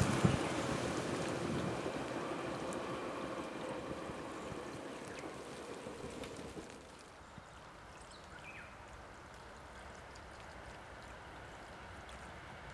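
A JR West 475-series electric multiple unit receding after passing, its rumble dying away over about seven seconds. Then a faint steady outdoor hiss.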